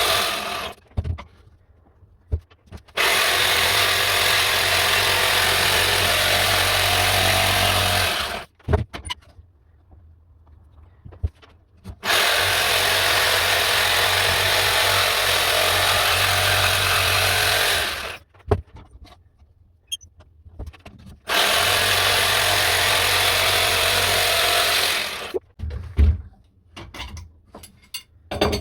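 Electric jigsaw cutting wood, running in three bursts of about four to six seconds and stopping in between, with short knocks and clatter in the pauses.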